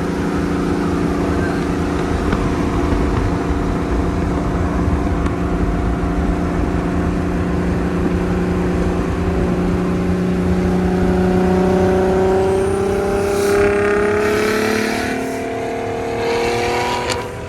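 Big-turbo car's engine under way, holding a steady pitch at first, then pulling with its pitch climbing slowly over the second half. It drops off sharply just before the end, as the throttle is lifted or a gear is changed.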